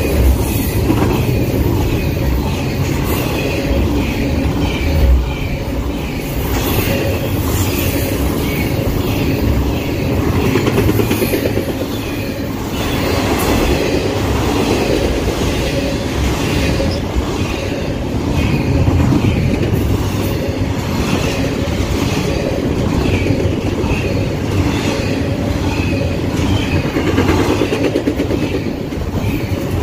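Double-stack intermodal container train of well cars passing close by: a continuous rumble of steel wheels on the rails, with repeated clicking as the wheels cross rail joints.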